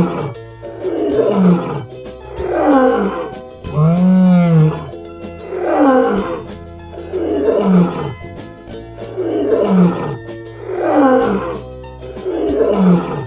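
A lion roaring in a repeated series of calls about every second and a half, most of them falling in pitch, over background music.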